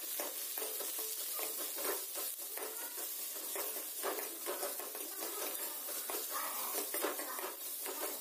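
Sliced onions and green chillies sizzling in hot oil in a metal kadai, stirred with a steel ladle that scrapes and clinks against the pan again and again.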